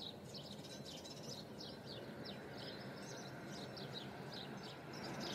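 Faint birdsong: small birds chirping in quick, short, high calls that dip in pitch, several a second, over a soft background hiss.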